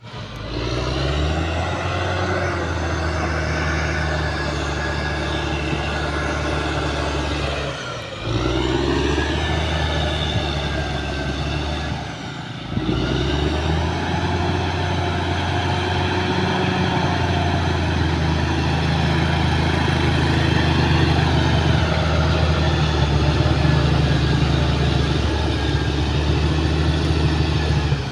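Caterpillar D6R XL bulldozer's diesel engine running steadily under load, twice briefly dropping in level and pitch and then picking up again.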